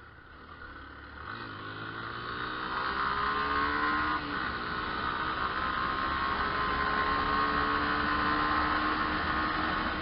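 Yamaha Fazer 250 motorcycle engine accelerating under way, rising in pitch from about a second in. The pitch drops suddenly just after four seconds as it shifts up a gear, then the engine holds a fairly steady pitch while cruising.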